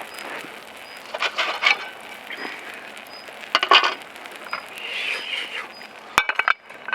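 Camp cooking over a wood fire: irregular clatters, knocks and rustles of cookware and utensils being handled, over a soft crackling and sizzling haze. A faint high chirp repeats about twice a second in the background.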